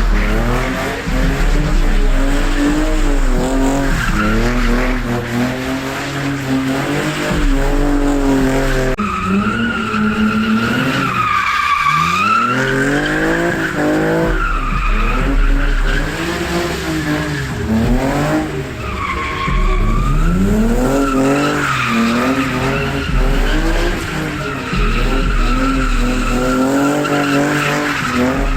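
Cars drifting: engines revving up and down over and over under long, wavering tyre squeal.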